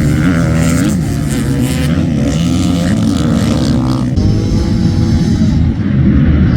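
Motocross dirt bike engines revving, their pitch rising and falling as the throttle opens and closes, with several bikes overlapping.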